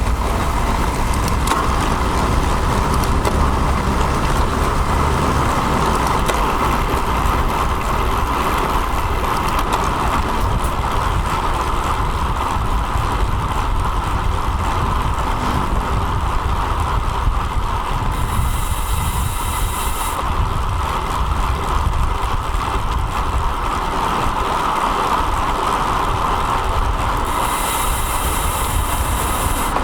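Steady wind and road rumble picked up by an action camera mounted on a moving road bike, with traffic around it. Twice a high hiss comes in for about two seconds, near two-thirds of the way in and again near the end.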